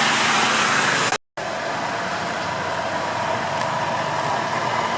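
Trucks driving past: steady engine and road noise, with a brief total dropout about a second in where the recording is cut.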